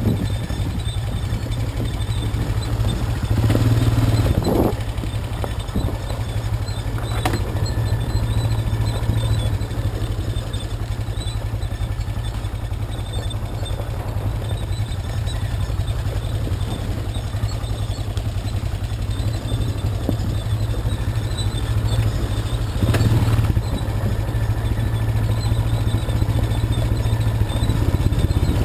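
ATV (quad bike) engine running at a steady speed, with brief louder swells about four seconds in and again near twenty-three seconds, and a sharp knock about seven seconds in.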